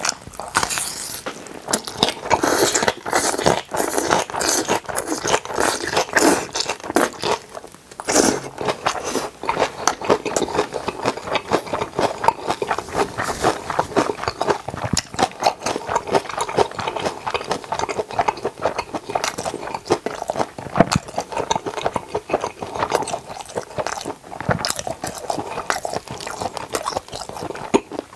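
Close-miked chewing of a large mouthful of napa cabbage kimchi: a steady run of crisp, wet crunches and mouth clicks with only brief pauses.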